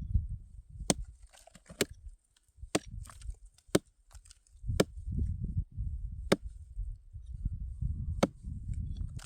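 A series of sharp chopping strikes, about one a second and spacing out toward the end, over a low rumble.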